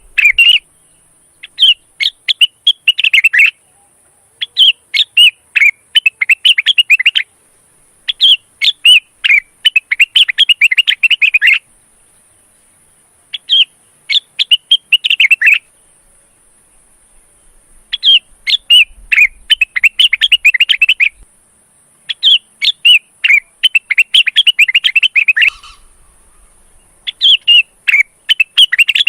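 Male cucak wilis (rengganis) in breeding condition singing in repeated phrases of rapid, chattering whistled notes, each phrase lasting a couple of seconds, with short pauses between.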